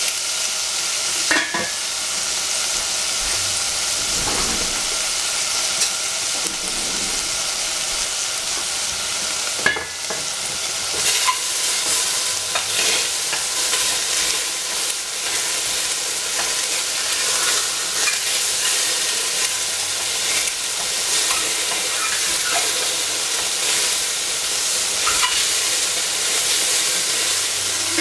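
Oyster mushrooms sizzling in oil in a stainless steel saucepan: a steady sizzle with scattered small pops and crackles.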